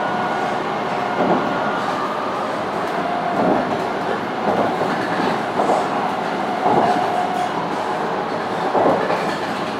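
Tokaido Shinkansen train running, heard from inside the passenger cabin: a steady rolling rumble with soft knocks from the wheels about once a second and a faint high whine.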